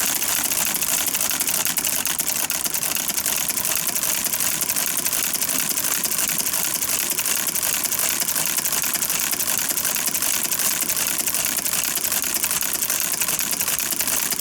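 Small mechanism running with a steady, fast, even clatter of light clicks.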